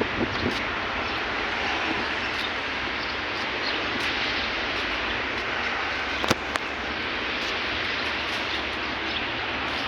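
Steady vehicle noise with a single sharp click about six seconds in.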